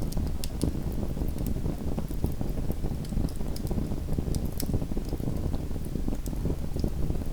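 Small wood fire burning in a fireplace: a steady low rumble of flames with frequent sharp, irregular crackles and pops.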